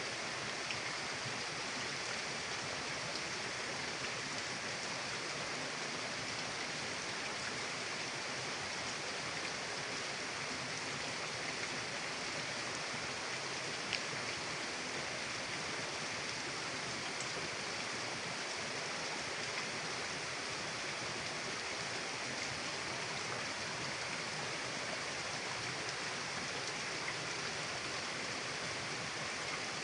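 Mountain river flowing, a steady rush of water with a brief click about halfway through.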